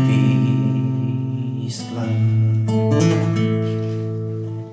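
Sung poetry: a man singing to his own acoustic guitar. He holds the last word of a line while the guitar strums chords, with fresh chords struck about two and three seconds in.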